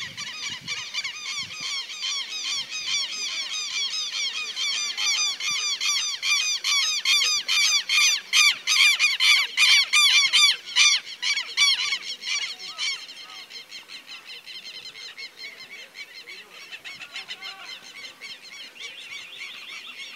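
Birds calling: a long run of rapid, repeated harsh calls, several a second, building to their loudest about two-thirds of the way through and then dropping away much fainter.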